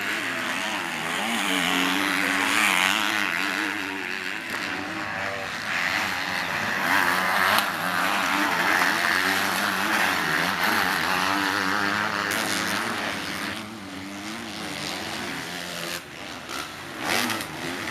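Several motocross bikes racing, their engines revving up and down as riders open and close the throttle and shift. A few sharp clicks come near the end.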